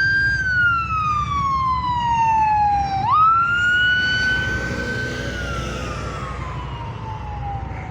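Emergency vehicle siren wailing: a quick rise in pitch, then a slow fall lasting about three seconds, twice over, easing slightly in loudness near the end, over a low steady rumble.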